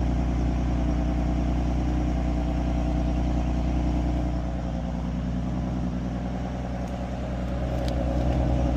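2014 Ford Mustang's 3.7-litre V6 idling loudly just after a cold start. The sound eases off slightly about halfway through and picks up again near the end.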